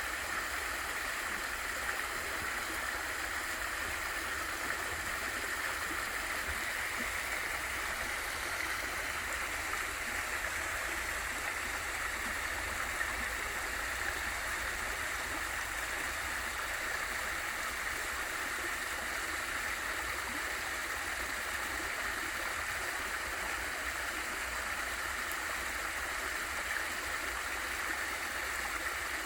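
Water of a small waterfall in a mountain valley stream, falling and rushing in a steady, even hiss that is brightest in the upper mid range.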